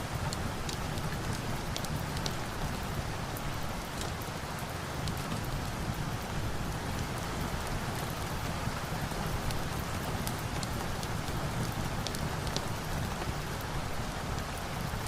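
Steady rain: a dense, even hiss of rainfall with scattered sharp ticks of individual drops.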